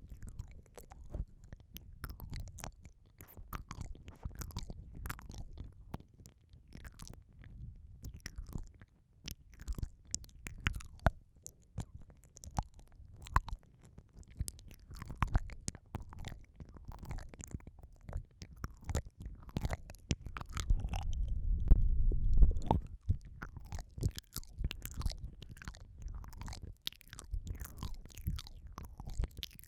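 Wet mouth sounds right at a microphone: irregular licking, smacking and sucking clicks of ASMR 'ear eating', with a low muffled rumble. The sounds swell louder and fuller from about two-thirds of the way through for a few seconds, then return to scattered clicks.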